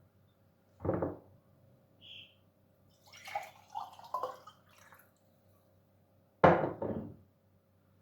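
Kitchen handling sounds: a knock about a second in and a louder double knock about six and a half seconds in, with a faint clink and a stretch of softer clinking and dripping between.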